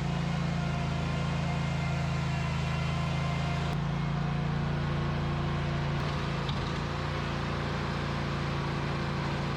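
A machine engine running at a steady speed, with a constant low drone, changing abruptly in tone about four and six seconds in.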